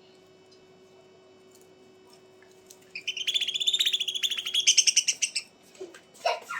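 A bird calling in a rapid trill of quick repeated chirps for about two and a half seconds, starting about three seconds in, over a faint steady hum. A few short sharp sounds follow near the end.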